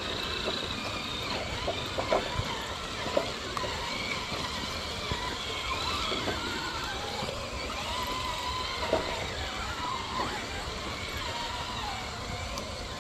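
Electric motors and geared drivetrains of 1/10-scale Traxxas TRX-6 6x6 crawlers whining as they crawl, the pitch rising and falling with the throttle. Scattered clicks and knocks come from tyres and chassis on rock.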